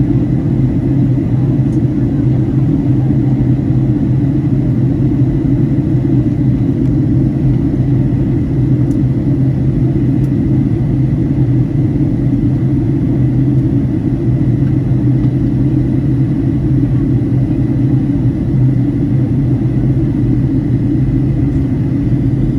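Airliner cabin noise in flight: the steady, even drone of the engines and airflow heard from inside the passenger cabin, with a faint thin high tone running over it.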